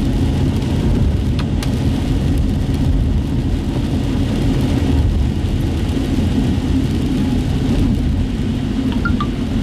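Steady road noise heard from inside a moving car's cabin: a low rumble of engine and tyres on wet pavement. There is a brief click about a second and a half in, and faint short chirps near the end.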